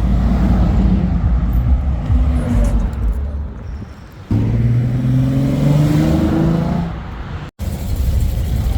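Car engine running with a low rumble, then revved about four seconds in, its pitch climbing for a couple of seconds before dropping back.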